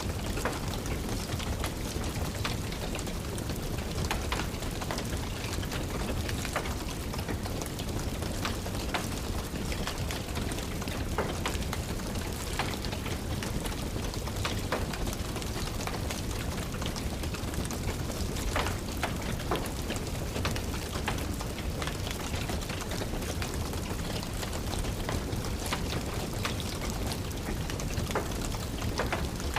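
Steady rain with the irregular snapping and popping of a crackling wood fire in a fireplace.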